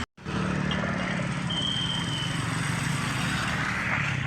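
A motor vehicle engine running steadily at a low hum, over outdoor road noise at a railway level crossing. A short high tone sounds about one and a half seconds in.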